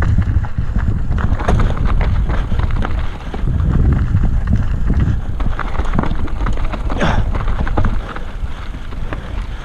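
Mountain bike clattering down a rocky trail: tyres pounding over rocks and roots, with the frame and chain rattling in quick, irregular knocks over a steady low rumble of wind and ground noise.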